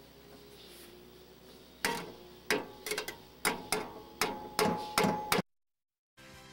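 A series of about nine sharp metallic knocks, like hammer strikes, irregularly spaced over a few seconds, the later ones leaving a brief ringing tone; the sound cuts off abruptly.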